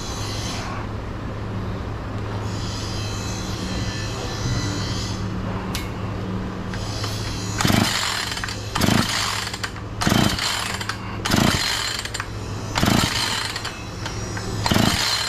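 Husqvarna 445 two-stroke chainsaw being pull-started: six quick yanks of the recoil starter cord in the second half, one every second or two, and the engine does not fire. The owner suspects the low-idle mixture screw needs backing out. A steady low hum runs underneath.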